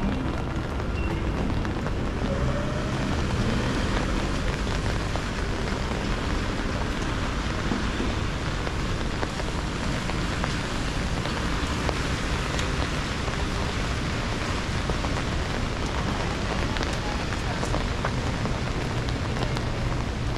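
Steady rainfall, a continuous hiss flecked with small drop ticks, over a low background rumble.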